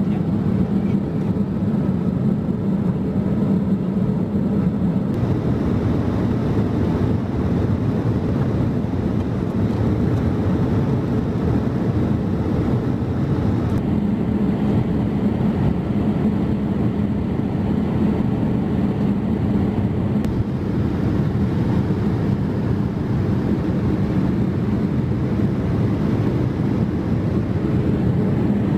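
Steady cabin noise of a Boeing 787-8 Dreamliner in cruise: a constant low drone of engines and airflow, heard from inside the economy cabin.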